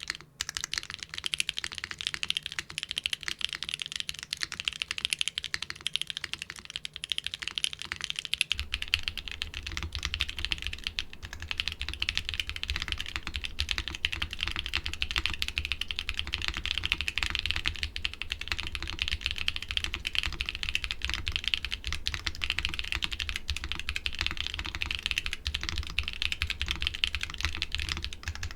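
Continuous fast typing on a mechanical keyboard fitted with doubleshot keycaps: a dense, even clatter of keystrokes. About eight seconds in, the recording changes to another microphone, and a steady low rumble sits under the clacks from then on.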